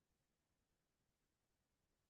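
Near silence: faint background hiss only.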